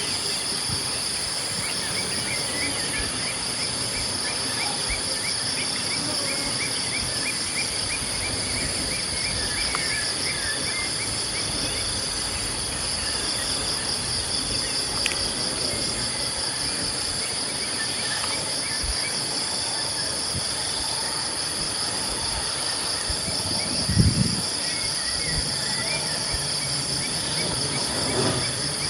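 Steady chorus of insects trilling at a high pitch, with short bird chirps through the first third. A brief low thump about 24 seconds in stands out as the loudest sound.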